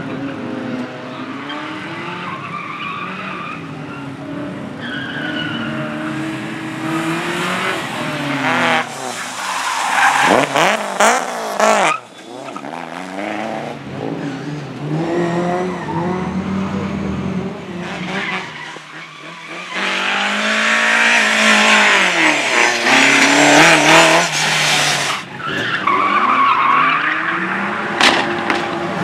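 A car being driven hard through a slalom course: the engine revs up and falls back again and again through gear changes and lift-offs, with tyres squealing and skidding. The engine cuts back sharply about twelve seconds in, and the loudest stretch of tyre squeal and hard revving comes about two-thirds of the way through.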